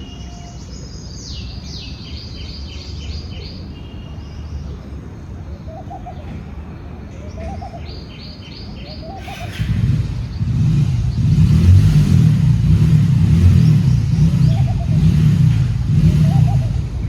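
Small birds chirping in short repeated trills, with a few soft low calls, over a steady low rumble. About halfway through, this cuts suddenly to a much louder low rushing rumble.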